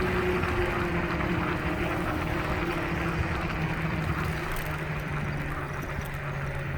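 Kaabo Wolf Warrior electric scooter riding along a road: a steady motor whine under road and wind noise, the whine drifting slightly lower in pitch.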